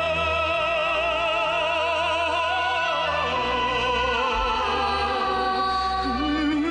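A Korean trot-style song with orchestral backing: a melody line with heavy vibrato carries through a pause between sung lines over a steady low bass.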